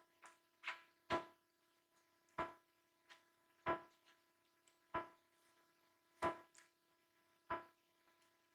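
Mukbang eating sounds: sharp, wet mouth smacks while chewing, about one every second and a quarter, over a faint steady hum.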